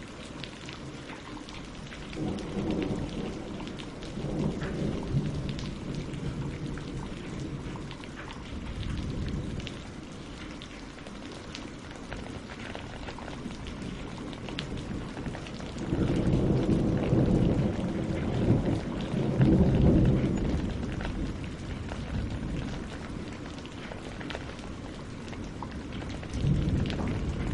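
Steady rain falling on tree leaves and lake water, full of fine drop ticks. Deep rolling rumbles of thunder swell three times, the longest and loudest just past the middle.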